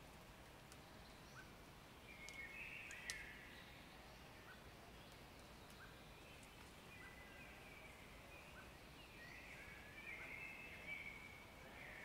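Faint birdsong in the open air: a couple of short warbling song phrases, one about two seconds in and another from about nine seconds in, with soft single chirps about every second or two in between.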